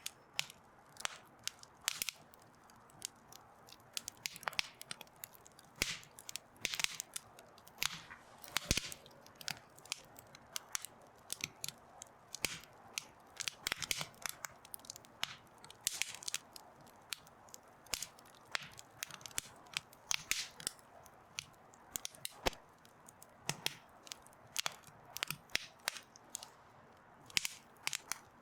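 Wood fire crackling, with irregular sharp snaps and pops coming several times a second over a low steady hiss.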